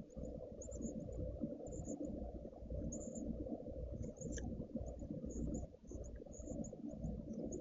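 Outdoor ambience at a bird camera: an uneven low rumbling noise, with faint, scattered short high chirps throughout.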